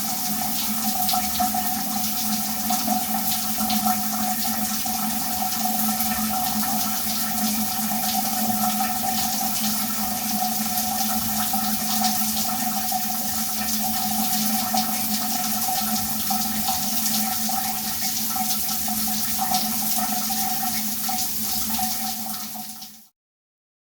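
Shower running: a steady spray of water with fine droplet patter and a steady hum under it. It fades and stops shortly before the end.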